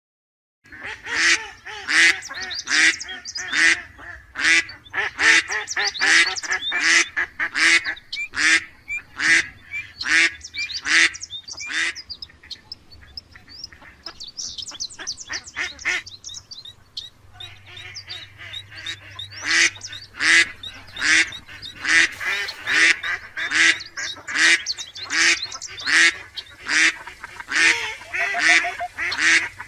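Ducks quacking, loud short calls repeated about twice a second, with a softer stretch of higher, thinner calls in the middle.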